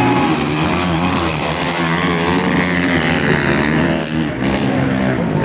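Motocross race bikes running on the track, their engines revving up and down in pitch as the riders work the throttle.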